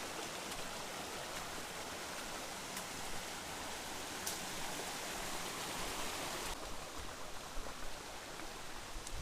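Mountain stream rushing steadily over rocks, a constant hiss of running water; the higher hiss softens about six and a half seconds in.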